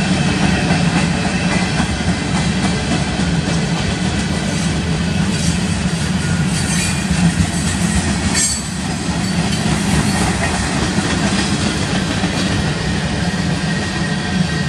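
Freight cars of a passing manifest train rolling by close up: a steady, loud rumble of steel wheels on the rails. A brief sharp, higher sound comes about eight and a half seconds in.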